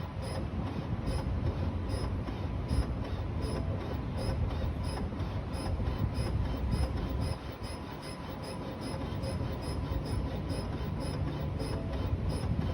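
2020 Ford Explorer engine running cold with a strange noise: a steady, rapid ticking at about four ticks a second over a low engine rumble and a faint steady whine.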